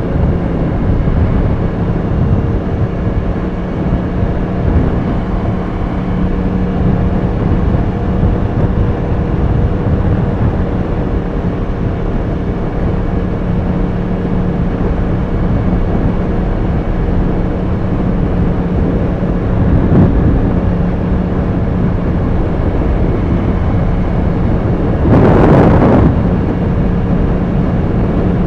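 Yamaha R1 sportbike's inline-four engine running at a steady pace while riding, with wind and road noise. Near the end a brief, loud rush of noise swells and fades.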